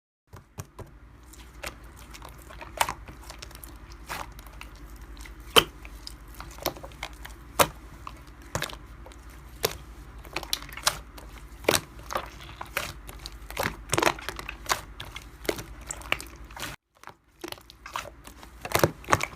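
Slime being squeezed and poked by hand, giving irregular crackling clicks and pops over a low steady hum, with a short break near the end.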